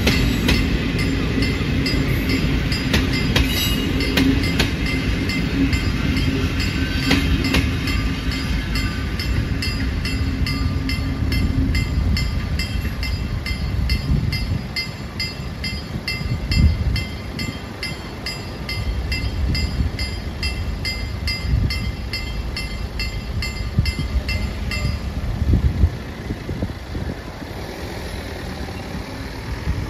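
Passenger train carriages rolling over the level crossing with a steady rumble, while the crossing's electronic warning bell rings in quick, regular strokes. The train noise fades about twelve seconds in, and the bell stops about twenty-five seconds in.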